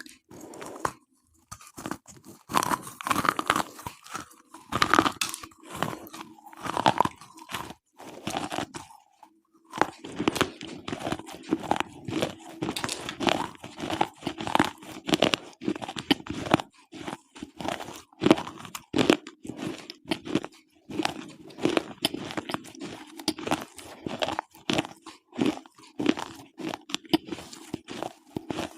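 Slate pencils being bitten and chewed: rapid, dry, irregular crunching and grinding, with a short pause about nine seconds in.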